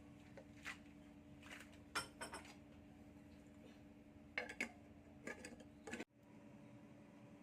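A few light clinks and knocks of kitchen equipment being handled, over a faint steady hum. The sound cuts off abruptly about six seconds in.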